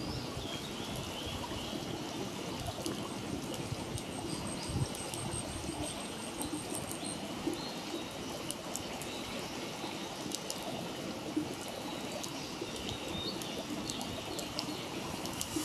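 Wood campfire burning with a steady rush and scattered sharp crackles and pops. Birds chirp throughout, with a rapid high trill from about three to seven seconds in.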